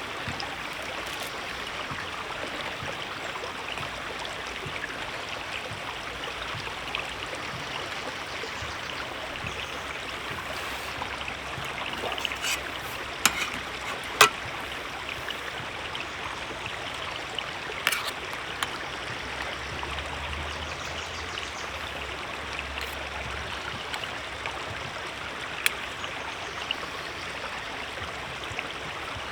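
Steady rushing of a shallow river flowing over stones, with a few sharp clicks standing out, the loudest about halfway through.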